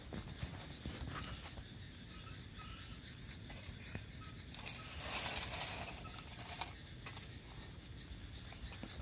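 Wood fire burning in a small secondary-combustion fire pit: scattered crackles and pops over a low steady rumble of flame. About five seconds in, a louder hissing rush lasts a second or so.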